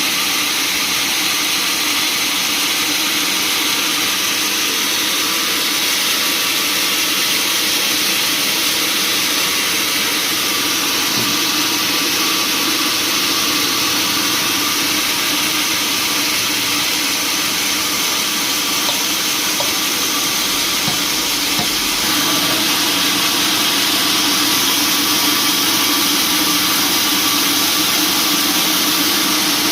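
Sawmill machinery running steadily with a constant mechanical hiss and hum, growing slightly louder about two thirds of the way through.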